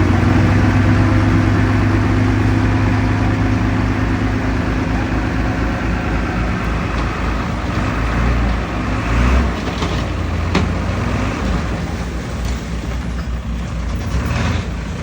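Heavy diesel engine of earthmoving machinery running steadily, working harder in the first few seconds and then easing off, with a few metallic knocks about ten seconds in.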